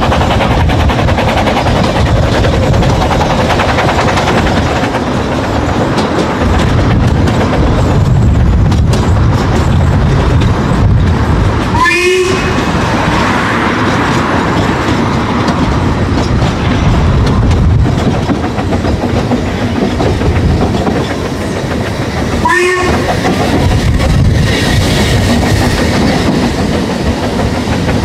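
Ffestiniog Railway narrow-gauge train running, heard from an open carriage window: a steady loud rumble and clatter of wheels on the track with rushing air. Two short whistle toots sound, about twelve and about twenty-three seconds in.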